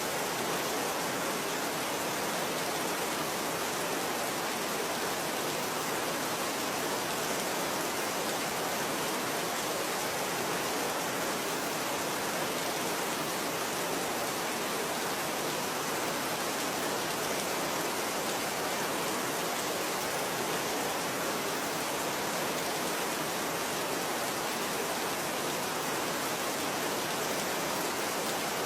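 Steady rain falling, an even, unbroken hiss with no distinct drops or changes.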